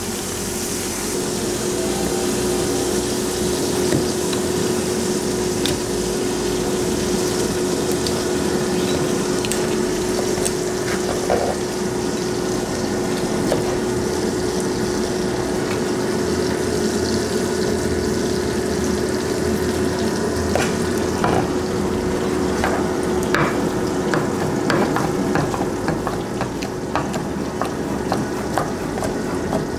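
Food sizzling in frying pans on a gas stove, with a steady hum throughout. In the second half, a knife and metal tongs click against a wooden cutting board while steak is sliced.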